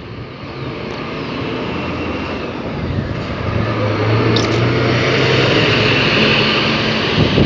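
Scania K360 coach's diesel engine and tyres passing close, growing steadily louder, with a steady low engine note from about halfway through and the loudest point near the end.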